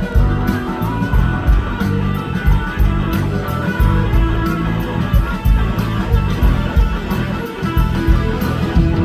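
A live rock band playing an instrumental passage: electric guitar lines over bass and a steady drum beat.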